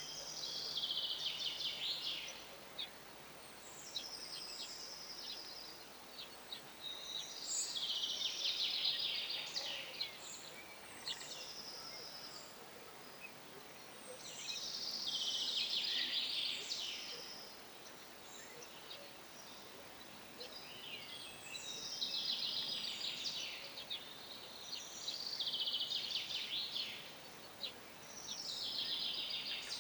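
Songbird singing in repeated high, rapid twittering phrases of about two seconds each, one every few seconds.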